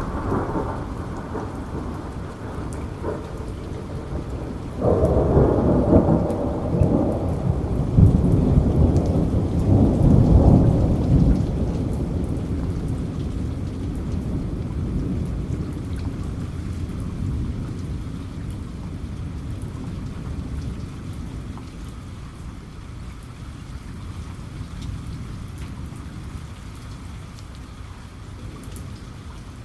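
Steady rain pattering, with a roll of thunder that breaks in suddenly about five seconds in, rumbles loudly for several seconds and then slowly dies away under the rain.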